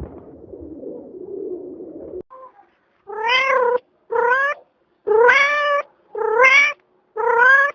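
Domestic cat meowing five times in a row, roughly once a second, each meow a short rising-and-falling cry. A low murmur comes before it for the first two seconds.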